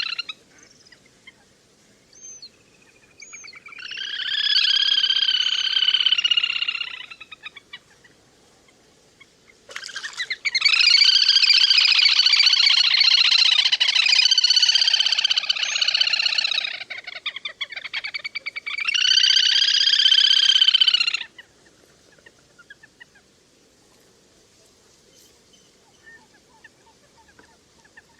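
Little grebe calls: three long bouts of rapid, high trilling (whinnying), the middle one the longest, with a couple of short single notes before the first bout.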